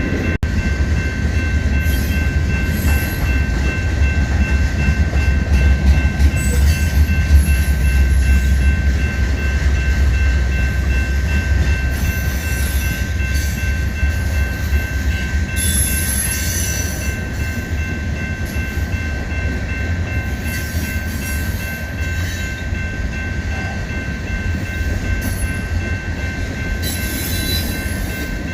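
Freight train rolling past: a heavy low rumble of locomotives and cars, loudest about a quarter of the way in, with a steady high tone held throughout and intermittent rattling and clatter from the wheels and cars.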